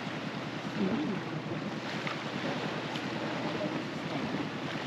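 Small outboard motor on a dinghy running slowly with an even pulse, under a wash of water and wind noise.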